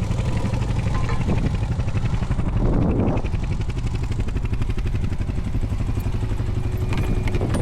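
Honda Foreman 520 ATV's single-cylinder engine running steadily under load while towing another ATV through sand. There are brief rushes of noise about three seconds in and near the end.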